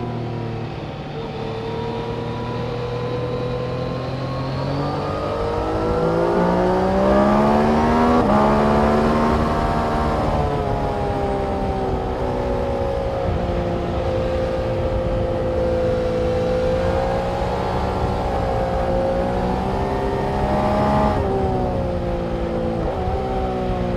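Engine running continuously under load on a race circuit. Its note rises steadily for several seconds and breaks sharply once about a third of the way in, as at a gear change. It then falls, holds steady and dips briefly twice near the end.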